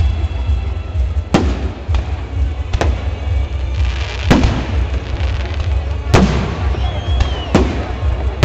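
Fireworks salute bursting: six sharp bangs at irregular intervals, over a steady low rumble.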